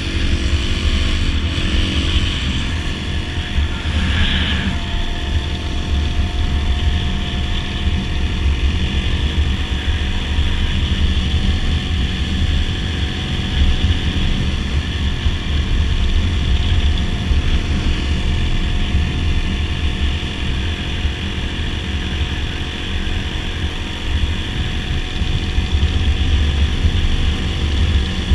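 Dirt bike engine running steadily at cruising speed on the road, with a heavy low rumble underneath. The pitch shifts slightly in the first few seconds, then holds steady.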